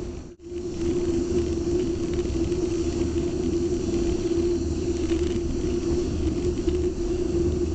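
A steady low rumble with a constant hum, and a faint high, steady drone of cicadas underneath. The sound drops out for a moment just under half a second in.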